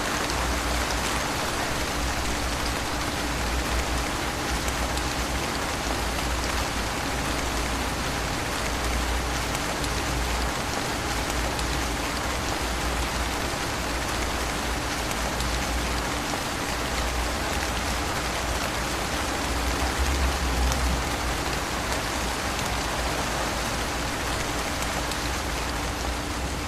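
Steady rain falling, a dense even hiss of drops that does not let up. A low rumble and a faint steady hum sit underneath it.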